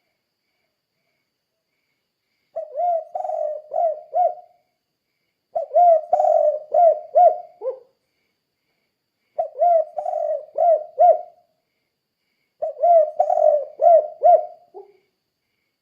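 Spotted dove (tekukur) singing the 'kuk 2' song: four phrases of several quick, low coos each, coming every three to four seconds after a couple of seconds of silence.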